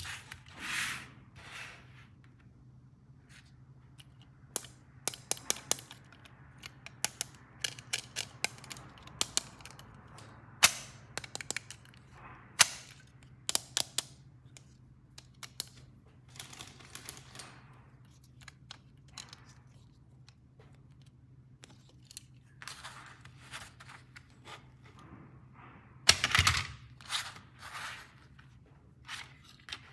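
Small plastic toy pieces and packaging handled by hand: a run of sharp clicks and taps, with short bursts of rustling, over a faint steady low hum.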